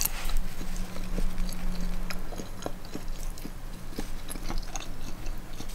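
Close-up chewing of a chicken quesadilla, heard as soft, scattered small mouth clicks.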